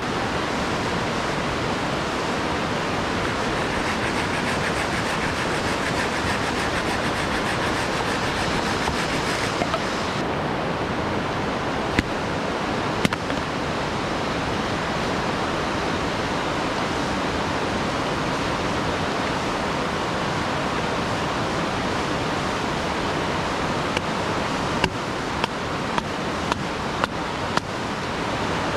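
Steady rush of a waterfall, an even hiss of falling water, with a few sharp ticks near the end.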